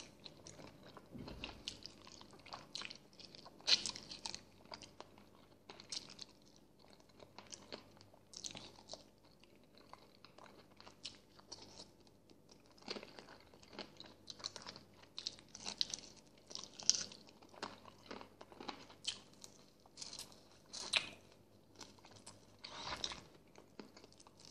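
A person chewing and gnawing meat off a boiled chicken bone, with irregular mouth clicks and small crunches, a few of them louder than the rest.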